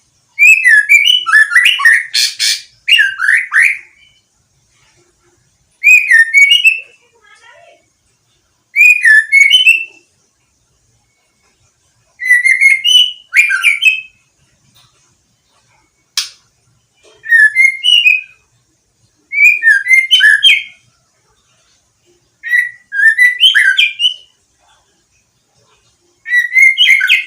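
Young white-rumped shama, about five months old and just through its moult, singing freely: short whistled phrases of one to two seconds with gliding notes, repeated every few seconds with silent pauses between, and one single sharp note about halfway through.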